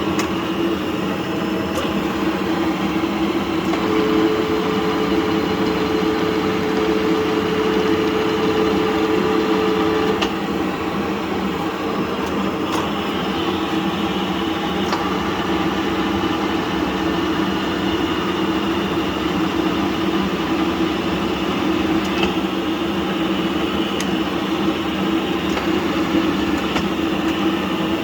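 FU-321 universal milling machine running with a steady mechanical hum and whine, an extra higher tone joining from about four seconds in until about ten seconds in.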